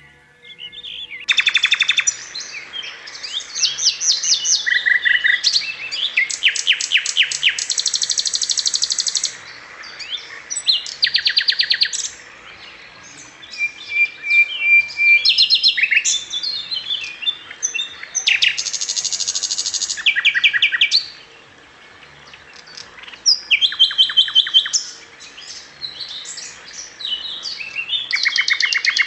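Domestic canary singing: rapid trills and rolls of quickly repeated notes, in phrases of a second or two broken by short pauses. The song starts about a second in.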